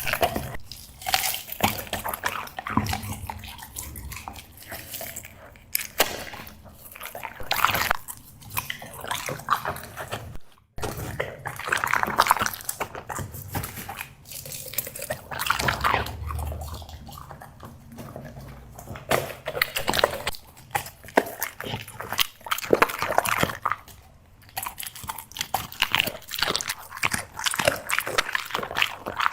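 Black Labrador chewing seafood treats close up: irregular crunching and biting with wet smacking, continuous bouts of chewing.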